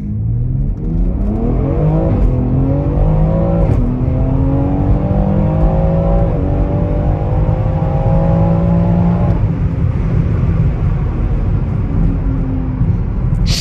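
2020 BMW X3M's S58 twin-turbo inline-six accelerating through the gears, heard from inside the cabin. The engine pitch climbs and drops at upshifts about two seconds in, near four seconds and about six seconds in. After about nine seconds the engine eases off and runs steadily.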